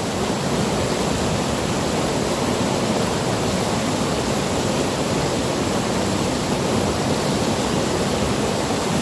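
A steady rushing noise that neither rises nor falls.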